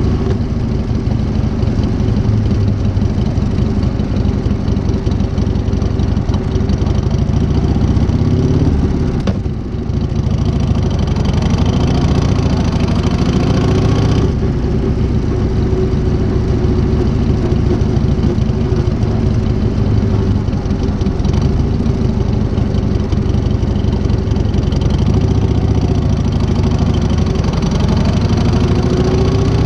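1978 Harley-Davidson Shovelhead V-twin engine, fitted with a new S&S carburettor, idling with a few small rises and falls in engine speed and a brief dip about nine or ten seconds in.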